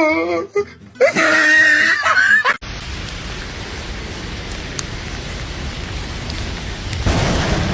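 A wavering, high-pitched voice-like cry, then a sudden cut to steady heavy rain. A low thunder rumble swells near the end.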